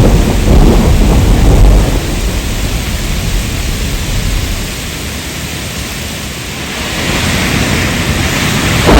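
Rain with rolling thunder: a heavy low rumble for the first two seconds eases to a steady rain hiss, then swells again near the end.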